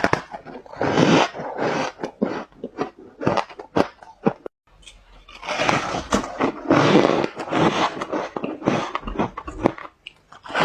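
Ice being bitten and chewed close to the microphone: many sharp cracks and loud crunching, with dense stretches of grinding crunch about a second in and again after the middle.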